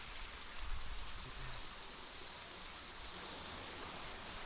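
Steady rush of falling water from the top of a waterfall, an even hiss with a low rumble underneath.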